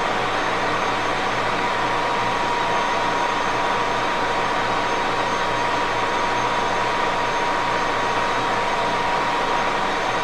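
1941 Axelson gear-head engine lathe running steadily, with an even whine from the machine.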